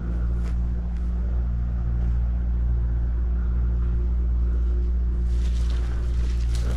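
Engine running steadily with a low, even drone, with some brief hiss and clicks over it near the end.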